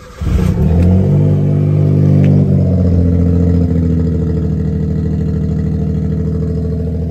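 Suzuki Cappuccino's small three-cylinder turbo engine starting from cold on fresh spark plugs. It catches almost at once, flares up, then settles into a steady fast idle that eases down slowly.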